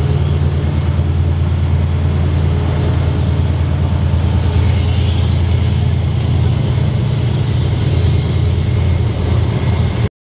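Diesel-hauled passenger train running through the station: a steady deep engine hum with wheel and rail noise, and a spell of higher hiss about halfway through. The sound cuts off abruptly near the end.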